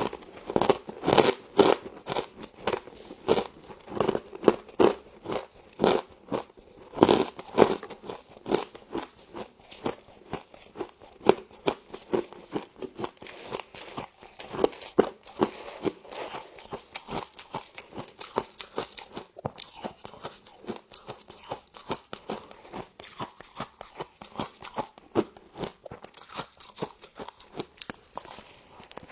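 Close-up crunching and chewing of humidifier frost, with irregular crisp bites and crackles, loudest and densest in the first half.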